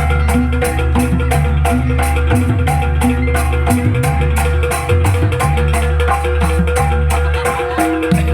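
Live Javanese gamelan music for a jaranan horse dance: metallophones ring out short repeated melodic notes over a deep, sustained bass, with a fast, steady rattling beat on top.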